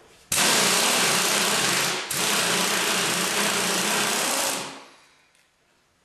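Impact wrench spinning off the bolts that hold the tractor's axle, in two long runs with a brief break about two seconds in, stopping about a second before the end.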